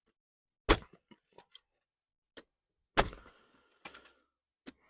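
Metal shovel blade being driven into damp, compacted garden soil: two sharp chunks about two seconds apart, the second the loudest and followed by a short gritty scrape, with lighter clicks of soil and stones between. The ground is wet enough to dig, though still not easy.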